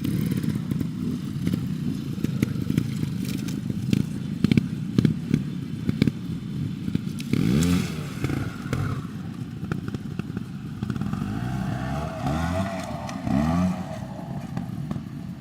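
Trials motorcycle engine blipped up and down in short bursts of revs, with knocks and clatter from the bike working over rough ground. The biggest rev sweeps come about halfway through and again near the end.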